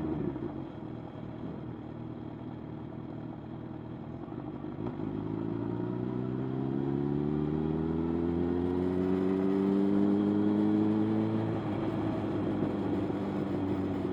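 Motorcycle engine under way. Its note drops just after the start, then rises steadily and grows louder for about six seconds as the bike accelerates, and falls back a few seconds before the end.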